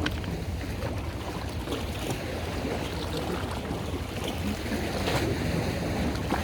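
Wind buffeting the microphone over a steady rumble of water and boat noise, with a few faint splashes.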